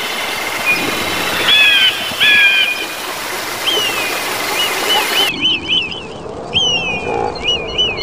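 Birds calling over a steady hiss: a few clear whistled calls, then a run of quick repeated chirps mixed with falling whistles. The background hiss drops away abruptly a little past halfway.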